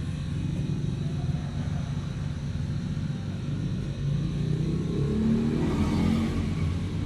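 Diesel engine of a wheel loader running, its revs rising about halfway through and settling back near the end.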